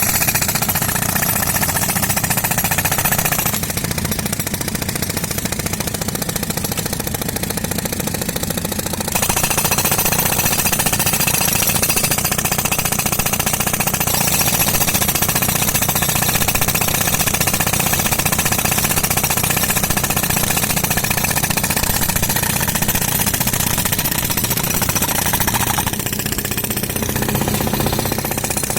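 Pneumatic concrete breaker hammering nonstop, a loud rapid stream of blows. Its sharper, higher part fades for about five seconds a few seconds in, then comes back.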